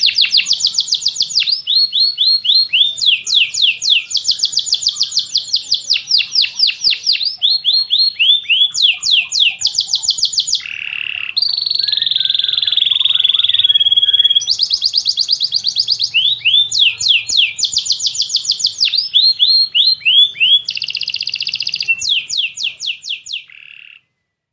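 Domestic canary singing: fast trills of repeated sweeping notes that switch from one rapid phrase to the next, with a smoother rolling stretch about halfway through. The song fades out just before the end.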